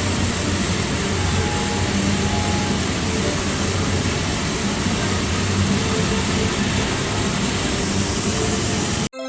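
Dense, steady din of a pachinko parlour, the noise of many machines at once with faint machine tones in it. It cuts off abruptly near the end, replaced by a clean electronic chime from the machine.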